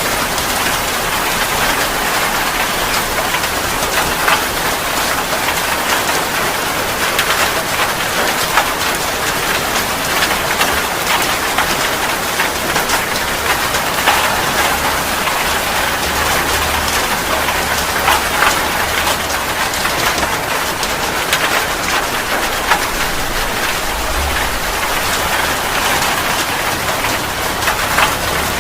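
Heavy rain falling steadily, with many individual drops pattering on a surface. Faint low rumbles come in around the middle and again later.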